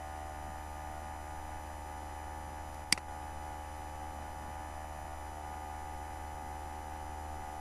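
Steady electrical mains hum and hiss from the recording chain, with one sharp click about three seconds in.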